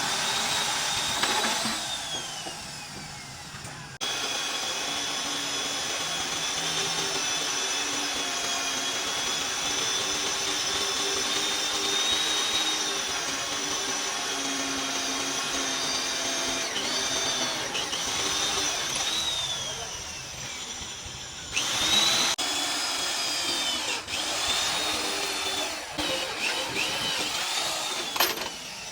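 Handheld electric power tool running on metalwork with a high whine, its pitch falling off a couple of times as the motor spins down, then running up again.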